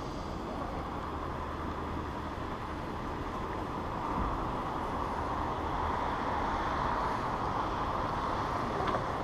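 Steady rushing background noise, strongest in the midrange with a low rumble under it, growing a little louder through the middle.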